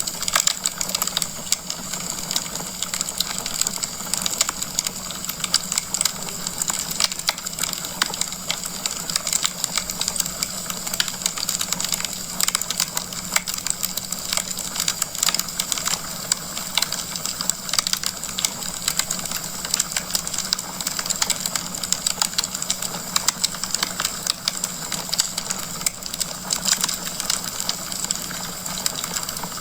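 Wood fire burning in a fireplace, logs crackling with a dense, irregular stream of snaps and pops over a steady hiss.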